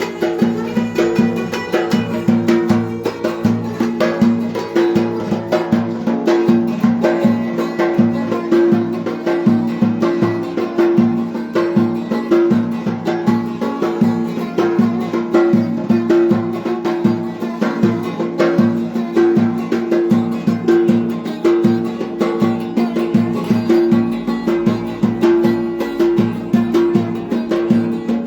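Instrumental Turkish folk dance tune (oyun havası) of the Ereğli–Alaplı style, played on melody instruments over a steady, evenly repeating percussion beat.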